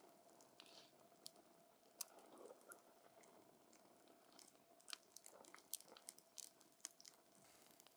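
Wood campfire crackling: irregular sharp pops and snaps scattered over a faint hiss of the burning.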